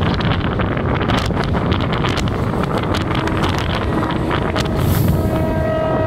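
Wind rushing over the microphone aboard a moving MEMU electric train, with clicks of the wheels over the track. About halfway through, a train horn starts sounding a steady chord that holds to the end.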